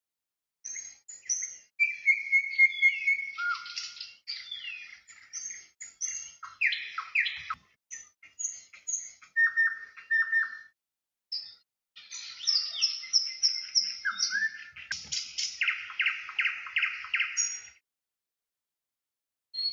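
Several songbirds chirping and calling: short high whistles, sliding notes and quick trills, with a few short breaks.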